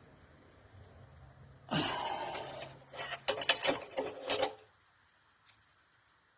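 Metal tools working on the injector housing of a dismantled Lister SR3 diesel engine as it is turned to shear off a locating pin: a scrape a little under two seconds in, then a run of quick metal clicks and knocks, and quiet after.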